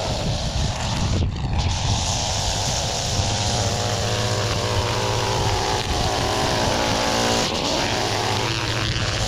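Gas string trimmer (weed whacker) engine running steadily at working speed, its pitch wavering and dipping briefly about a second in and again near the end.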